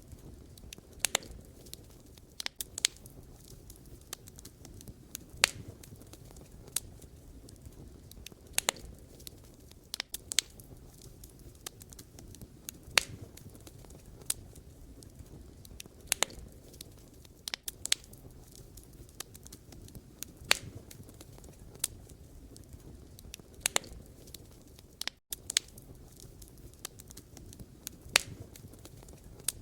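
Wood fire burning, with irregular sharp crackles and pops from the logs over a steady low rumble of the flames.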